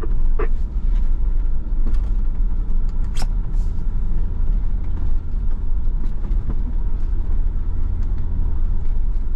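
A 4x4 vehicle driving along a rough dirt trail: a steady low engine and tyre rumble, with a few short knocks and clicks over it.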